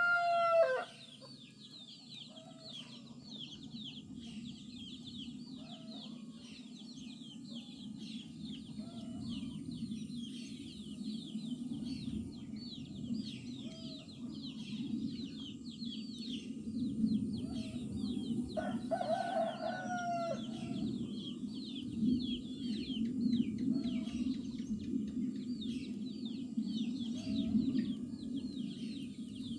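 A rooster crowing: the tail of one crow right at the start and a full crow about two-thirds of the way in. Under it, small birds keep up a dense high chirping chorus, with occasional short clucks over a low steady murmur of the farmyard.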